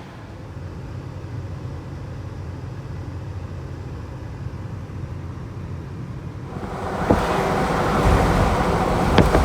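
Toyota 4Runner driving, a steady low road and engine rumble heard from inside the cabin. About seven seconds in, a louder, rougher noise sets in, with sharp knocks and crackles.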